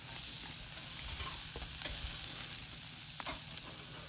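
Beef sizzling on a hot barbecue grill: a steady hiss with scattered crackles and pops.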